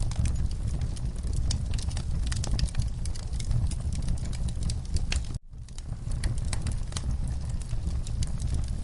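Wood fire in a fireplace crackling, with many sharp pops over a low rumble of burning. The sound cuts out for a moment a little past halfway, then resumes.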